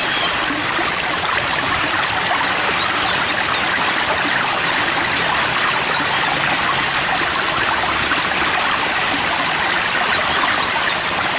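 Steady rush of flowing water, like a stream, with a few short high bird chirps right at the start.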